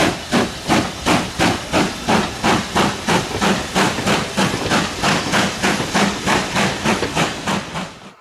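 Steam locomotive working under steam, its exhaust beating in a steady rhythm of about four chuffs a second. The beats ease slightly, then cut off suddenly near the end.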